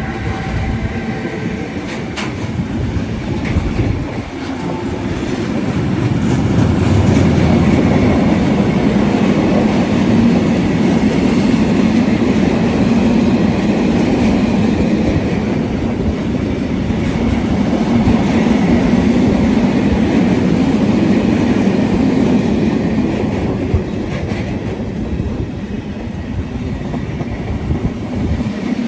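Train running along the track past the platform, a continuous loud rumble with wheels clattering over rail joints, building a few seconds in and easing somewhat near the end.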